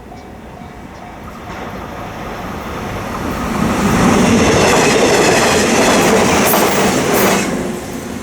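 Electric train passing over a level crossing, its wheels clattering over the rail joints; the noise builds for a few seconds, stays loud for about three seconds, then drops off quickly as the train clears. The crossing bell's repeating ding fades out in the first second.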